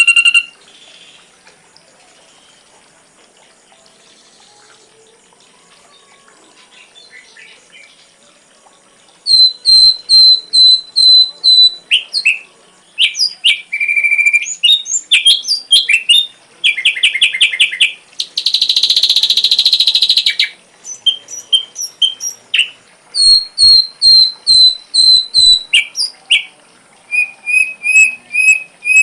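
Ashy drongo singing a varied mimicking song. After about nine seconds of quiet, it gives loud, rapid runs of repeated clear whistled notes, chirps and trills, with a harsh buzzy burst partway through. A faint steady high whine sounds underneath.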